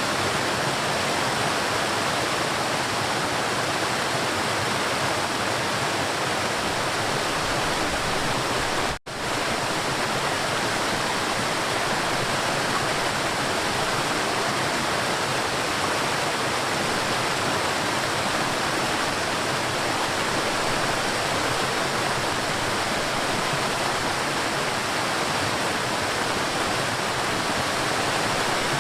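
River water flowing and rushing in a steady, even wash. It cuts out for an instant about nine seconds in, then carries on unchanged.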